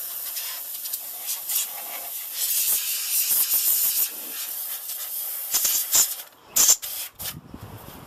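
Can of compressed air spraying dust out of a desktop computer case in a long hiss and several short blasts, with brief pauses between them.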